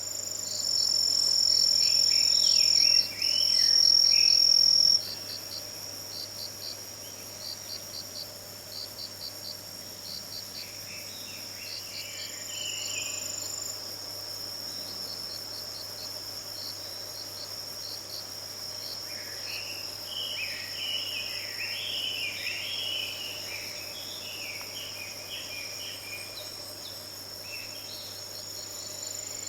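Autumn crickets and other insects trill and chirp without a break, with one loud continuous trill for the first few seconds. A Chinese hwamei sings varied phrases over them, briefly near the start and again around the middle, then at length through the second half.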